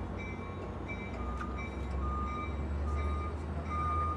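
Electronic railway warning bells dinging over and over, about two strikes a second at two different pitches, over the low, steady rumble of a train.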